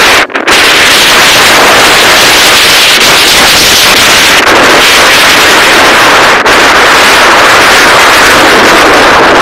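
Strong wind blasting straight onto the microphone, a continuous loud rush of noise that overloads the recording, with a brief dropout just after the start.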